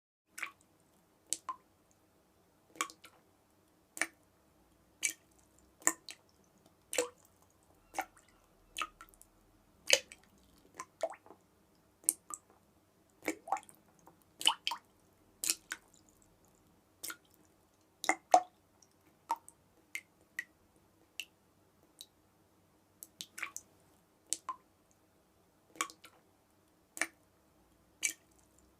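Water dripping: single drops plink one at a time, about once a second at an uneven pace, some falling in quick pairs.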